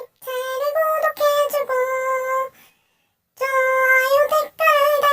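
A high-pitched voice singing short held notes in two phrases, with a silent pause of about a second between them.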